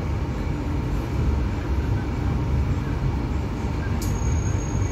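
Passenger train car rumbling on the rails as the train rolls slowly out of a station, heard from inside the carriage. A faint high whine joins about four seconds in.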